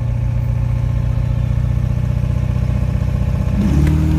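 C3 Corvette's V8 idling with a low, rhythmic pulse at the starting line, heard from inside the cab. Near the end the engine revs up sharply and climbs in pitch as the car launches down the drag strip.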